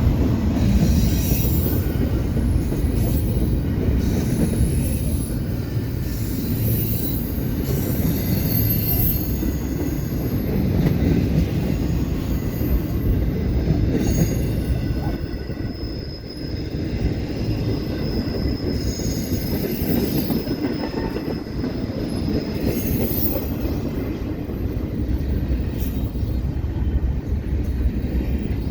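Cars of a passing CPKC freight train rolling by: a steady rumble of wheels on rail, with high wheel squeals coming and going, one held for several seconds around the middle.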